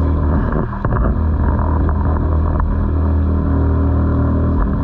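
Suzuki 2.5 hp four-stroke outboard motor running at a steady speed.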